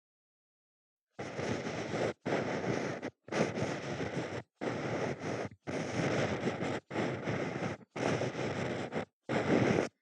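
Ear pick scratching and scraping in an ear, in about eight strokes of roughly a second each with short silent breaks between, starting after about a second of silence.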